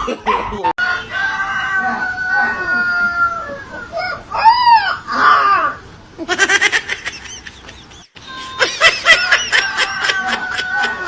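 Animal calls, pitched and repeated, in several stretches that change abruptly from one to the next.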